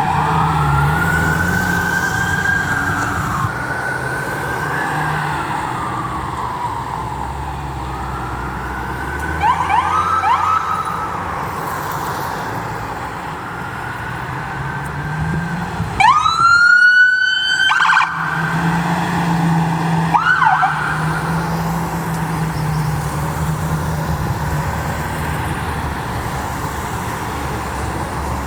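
Emergency vehicle sirens sounding while passing. A wailing tone rises and falls slowly, with quick rising yelps about a third of the way in. The loudest moment is a short, sharply rising siren blast a little past halfway that holds for about two seconds, under a steady low vehicle rumble.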